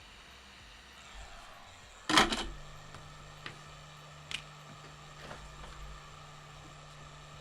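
Bench handling noises: a short, loud clatter of hard objects about two seconds in, followed by a few light clicks. A steady low hum starts right after the clatter and carries on.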